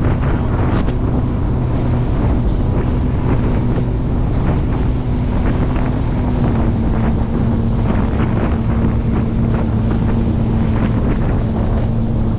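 Jet boat engine running steadily under way, with wind buffeting the microphone and water rushing past the hull. The engine note drops slightly about halfway through.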